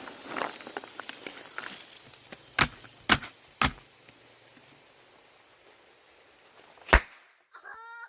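Four sharp knocks or cracks over outdoor background noise: three about half a second apart, then a louder single one a few seconds later.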